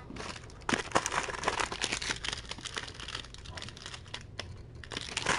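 Crinkling and rustling, dense with small crackles and clicks, that eases off briefly near the end and then picks up again.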